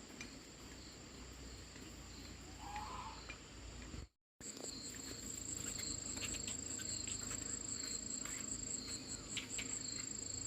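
Insects giving a steady, high, continuous chirring, cut off for a moment about four seconds in and louder after the break.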